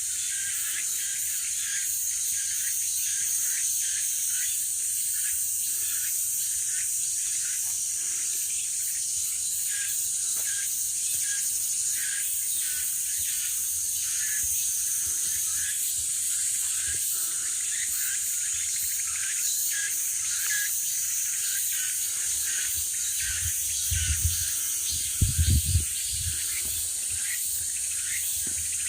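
A steady chorus of forest insects, a dense high-pitched drone with many short repeated chirps over it. A few loud low thumps come near the end.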